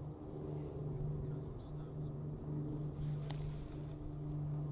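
A motor running steadily with a low hum, with one brief sharp click about three seconds in.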